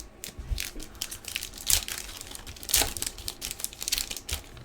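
Trading card pack wrapper being torn open and crinkled by hand: a run of irregular crackles and rustles, loudest about two and three seconds in.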